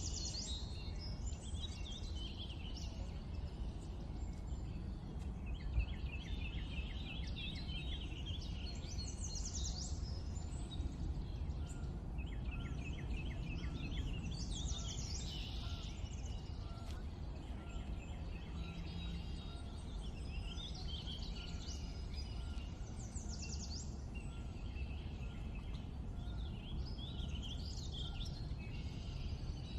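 Songbirds chirping and singing in short repeated phrases every few seconds, over a steady low background rumble.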